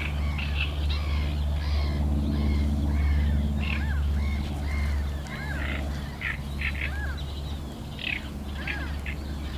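Several birds calling with many short chirps that rise and fall in pitch, over a steady low hum.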